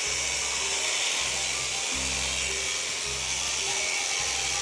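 Electric sheep-shearing handpiece running steadily as it cuts through the fleece, a continuous buzz, with background music underneath.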